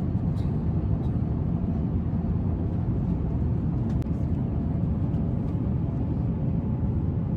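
Airliner cabin noise: a steady low rumble from the engines and rushing air, with a couple of faint clicks, as the plane shakes hard.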